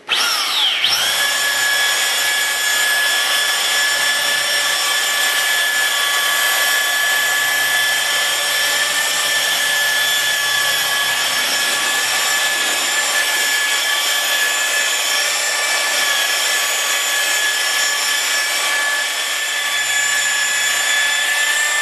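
Electric machine polisher spinning up to speed, then running steadily with a high whine while buffing out light scratches in a car's paint.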